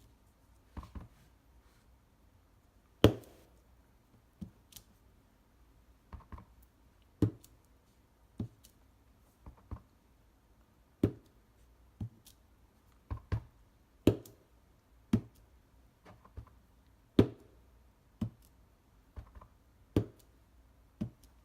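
Rubber stamp (the dots stamp from the Swirly Bird set) being pressed onto card stock on a tabletop, giving sharp taps about once a second, some in quick pairs, as the paper is stamped all over.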